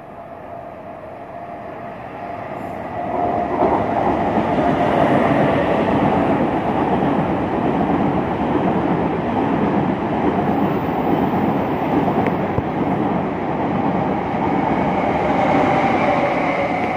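Taiwan Railway Tze-Chiang express push-pull electric train passing through the station at speed without stopping. The rumble of wheels on rail swells about three seconds in and stays loud, with a steady whine over it.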